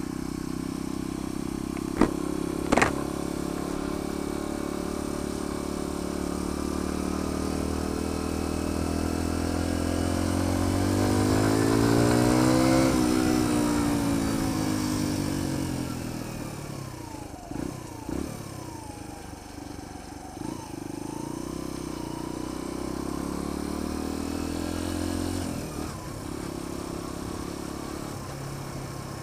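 Sinnis Apache 125's single-cylinder 125 cc engine heard from the rider's helmet, climbing steadily in revs to a peak about thirteen seconds in, then easing off and slowing, quieter near the end. Two sharp knocks sound about two and three seconds in.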